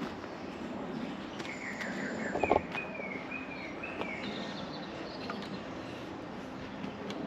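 Birds calling: a run of short, wavering chirps through the middle, over steady background noise, with one brief loud knock about two and a half seconds in.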